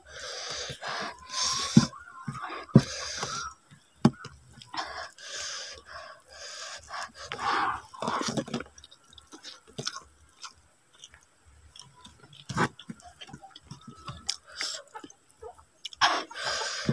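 Close-up eating sounds: wet chewing and smacking of a mouthful of rice and vegetables eaten by hand, with noisy breaths through the open mouth. The loudest breath comes near the end.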